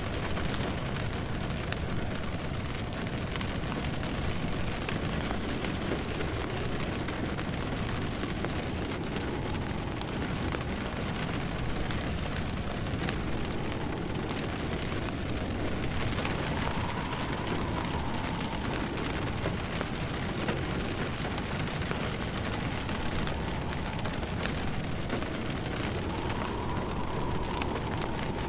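Steady rain mixed with a crackling wood fire, many small pops and snaps over the even hiss of the rain. Twice in the second half a faint wind howl rises and falls.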